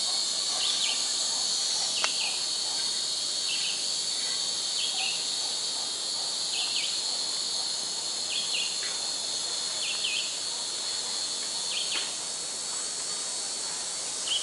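Steady high-pitched insect chorus, with a short double chirp repeating about once every second or so and a faint click about two seconds in.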